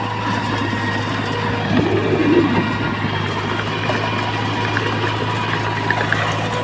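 Diesel engine of heavy earthmoving equipment running steadily, with a brief swell about two seconds in.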